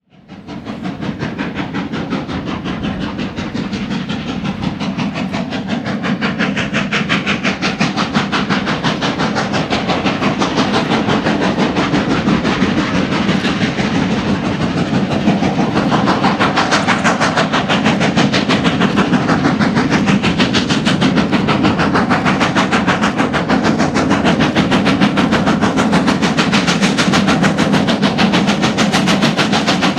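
Great Western #90, a 2-10-0 steam locomotive, working hard upgrade with a freight train: a fast, steady beat of exhaust chuffs from the stack (stack talk). It grows louder over the first half, then holds.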